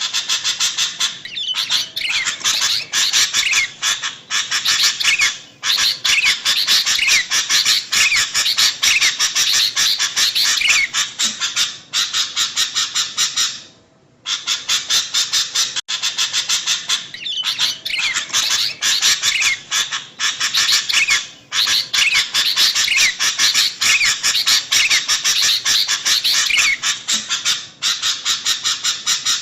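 Sooty-headed bulbuls chattering noisily, many quick calls overlapping. The same stretch of calls repeats about halfway through, as a looped recording.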